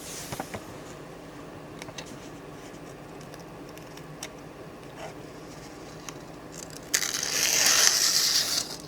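A few faint clicks of handling a knife. Then, about seven seconds in, a loud hissing scrape starts suddenly and lasts under two seconds as the steel blade is drawn in one long stroke.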